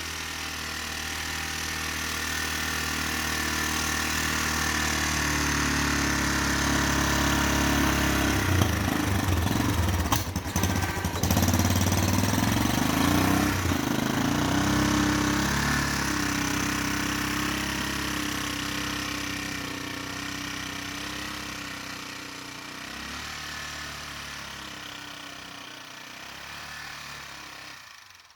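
Four-wheeler (ATV) engine running. It grows louder and shifts in pitch in the middle, then fades steadily toward the end.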